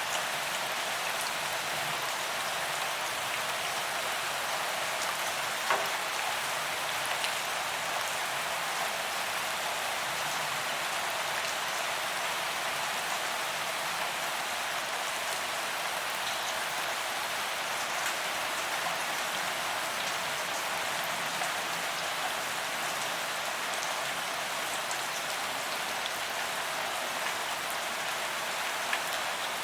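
Steady rain falling on a paved promenade, an even hiss with scattered individual drops ticking on the pavement, one a little louder about six seconds in.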